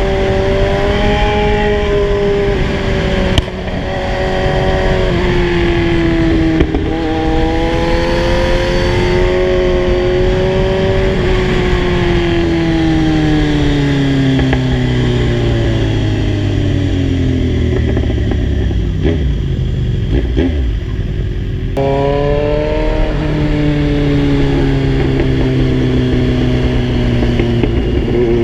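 Kawasaki Z1000 inline-four engine under way, with wind rushing over the microphone. It runs at steady revs with two quick gear-change breaks early on, then the revs fall slowly for about ten seconds as the bike rolls off. About 22 s in, the throttle opens again.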